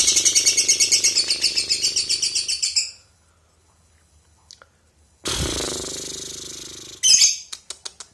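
A lovebird giving its long, rapid stuttering trill ('ngekek'), about ten pulses a second for nearly three seconds. After a pause it trills again more briefly, then gives a short chirp and a few sharp clicks near the end.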